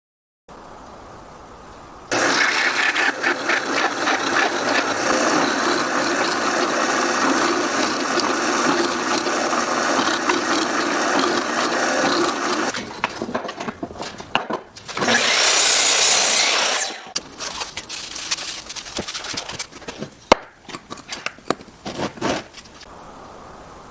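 A power tool working wood runs steadily for about ten seconds, then stops. Irregular knocks follow, then a second loud burst of about two seconds, then scattered clicks and knocks as the wood is handled.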